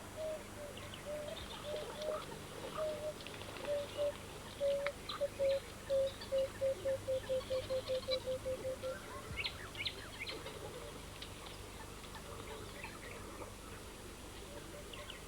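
Wild birds calling: one bird gives a run of low hooting notes that speed up until they run together, about nine seconds long. Scattered higher chirps from other birds sound throughout.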